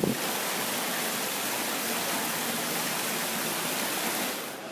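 Steady rushing of falling water, like a fountain or cascade, that cuts off near the end.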